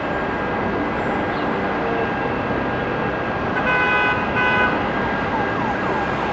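Steady roar of city traffic, with two short, pitched vehicle horn blasts a little past the middle.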